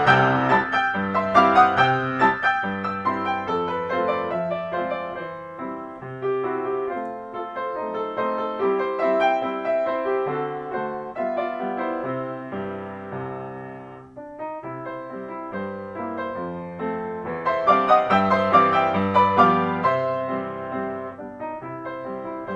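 Background piano music: a solo piano piece that grows softer toward the middle and swells again near the end.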